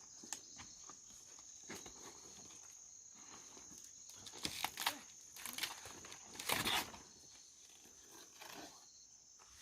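A steady high insect drone, like crickets or cicadas, with scattered rustling and crunching noises, loudest about four and a half and six and a half seconds in.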